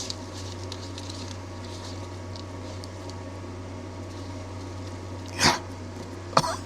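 A steady low hum with faint scraping, broken about five and a half seconds in by one loud, sudden cough from a man irritated by spicy chili powder. A second shorter burst follows near the end.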